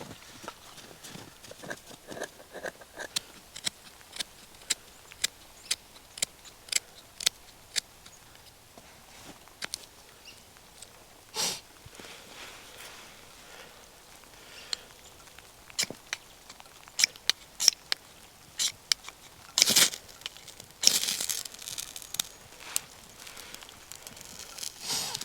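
Irregular sharp clicks and crackles, with a few louder crunching or rustling noises about halfway through and again near the end.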